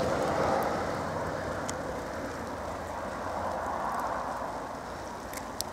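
Car driving at speed on a snow-covered road: steady tyre and road noise that swells and slowly fades, with a few faint ticks.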